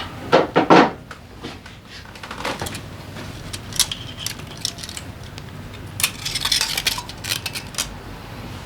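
Metal tools and engine parts clinking and clattering as they are handled and set down, in several short clusters of sharp knocks and rattles.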